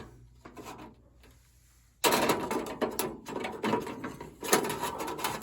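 Band sawmill blades being handled and taken off: a sudden run of clattering and scraping starts about two seconds in and goes on with knocks.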